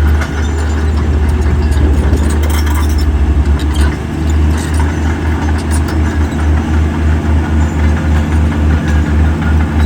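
Heavy diesel engine of an earthmoving machine running, with a deep throb that pulses rapidly for the first few seconds and then settles to a slower beat of about two a second.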